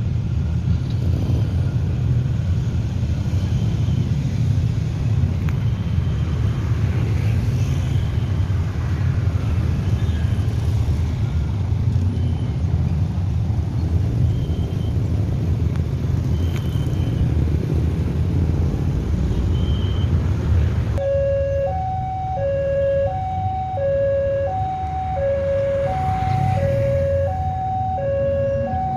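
Heavy low rumble of vehicles at a railway level crossing. About three-quarters through, the crossing's warning alarm sounds, alternating between two tones about every half second.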